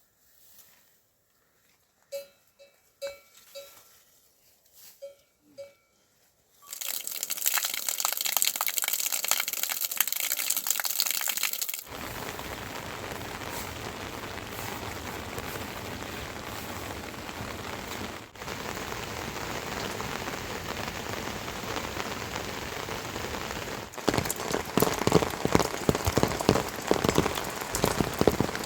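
Rain falling in a dense, even hiss that starts suddenly about a quarter of the way in and shifts abruptly in character several times, getting louder with sharp drop hits near the end. Before it there are a few short, faint pitched notes.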